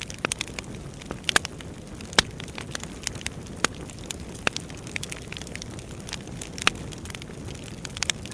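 Wood fire burning: irregular sharp crackles and pops of burning logs over a steady low rush of the flames.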